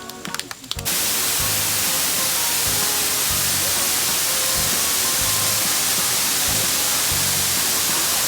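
A loud, steady rushing hiss cuts in suddenly about a second in, over background music with a soft low beat.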